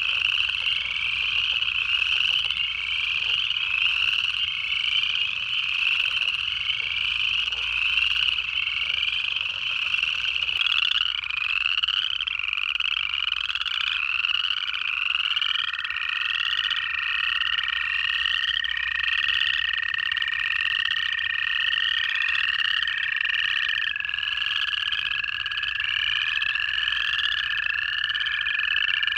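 Pond chorus of upland chorus frogs, a dense overlapping run of rising trills. About halfway in, an American toad's long, steady trill joins and holds. In the first third, the low chuckling of a southern leopard frog sounds beneath.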